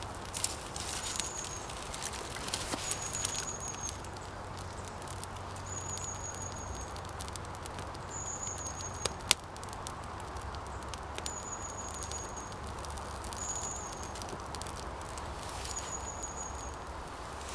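Outdoor camp ambience: a steady hiss with scattered light crackles and clicks and one sharp snap about halfway. A short, high, slightly falling note repeats every two to three seconds.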